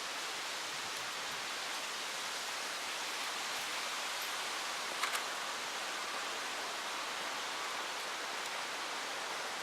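Steady, even hiss of outdoor background noise, with two short clicks close together about halfway through.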